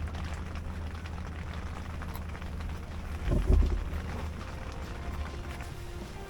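Steady rain pattering, with a brief louder low thump about three and a half seconds in.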